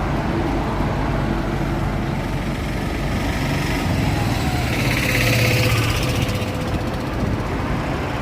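Road traffic in heavy rain: vehicle engines running over a steady hiss of rain and wet road. A louder hiss swells about five seconds in and fades again.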